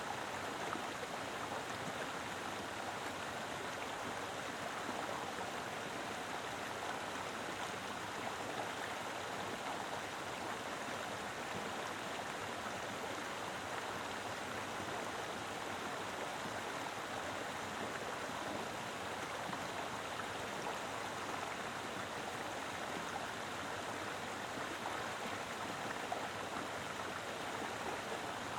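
Mountain river flowing steadily, a full rush of water over rocks with no change or break.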